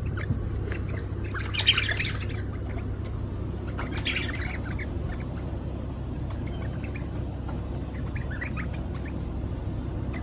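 Rosella giving harsh squawking calls in three short bouts, the first and loudest about a second and a half in, another about four seconds in and a fainter one near the end, over a steady low rumble.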